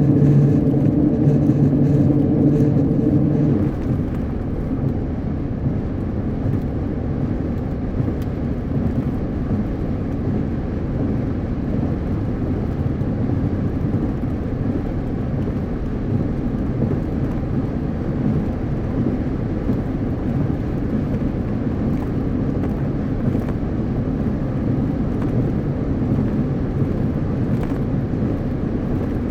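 Steady road and tyre noise of a car driving at highway speed, with a louder steady hum over it for the first few seconds that cuts off about four seconds in.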